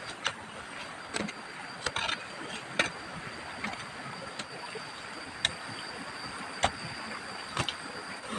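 Scattered sharp knocks and clicks at irregular intervals, about a dozen, over a steady background hiss with a thin, high, steady tone.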